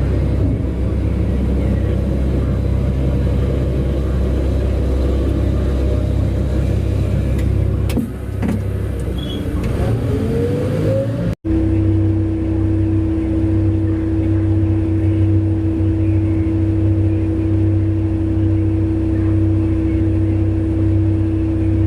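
Large mining haul truck's diesel engine running under load, with a rising whine shortly before a sudden break about halfway through; after the break, a steady engine drone with a strong hum.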